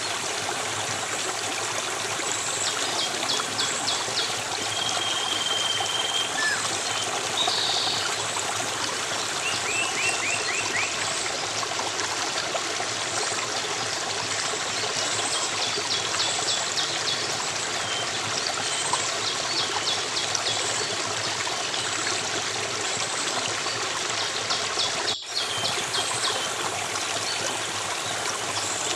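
A flowing stream rushing steadily, with small birds calling over it in repeated short, fast trills and a brief whistle. The sound cuts out for an instant near the end.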